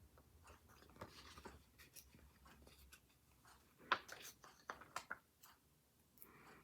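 Faint rustling of paper with scattered small taps and clicks as a planner and its stickers are handled on a desk, the sharpest tap about four seconds in.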